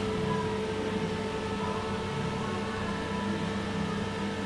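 Steady mechanical hum with a constant tone.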